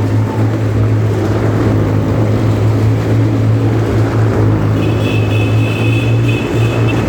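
Motorcycle engines running at steady, constant revs during a wall-of-death motodrome ride, a loud continuous low hum. A high steady tone joins about five seconds in.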